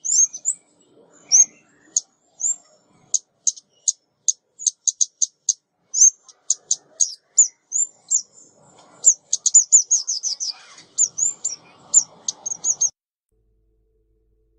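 Recorded calls of a female ốc mít, a small Vietnamese songbird, played as a trapping lure: rapid runs of short, high, sharp chirps, some sliding down in pitch. They stop near the end.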